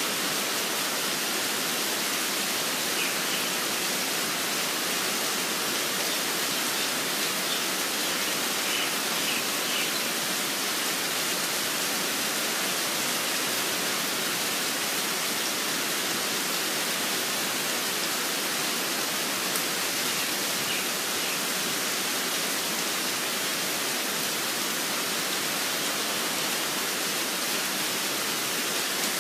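Steady rainfall with an even hiss, and a few faint bird chirps now and then.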